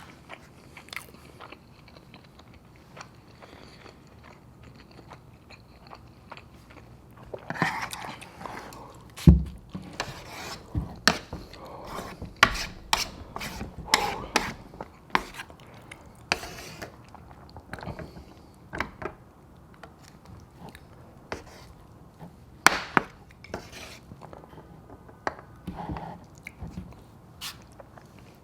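Close-miked eating: a person biting and chewing Chapagetti noodles and gyoza dumplings, with many short irregular clicks and crunches. A loud knock sounds about nine seconds in.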